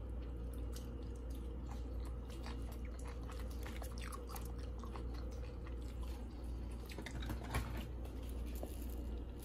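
A person chewing crisp fried squid with scallions close to the microphone: irregular soft crunches and small clicks over a steady low room hum.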